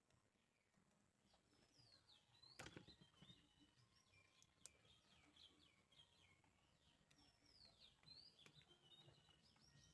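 Near silence, with faint bird chirps in the background and a faint click about two and a half seconds in.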